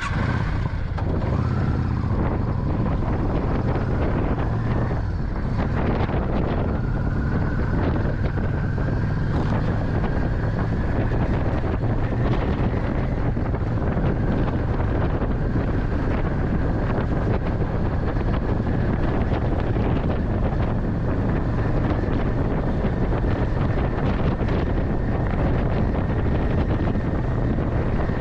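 Motorcycle riding at speed, heard on board: steady engine and road rumble under heavy wind buffeting on the microphone, with a faint whine that slowly rises in pitch.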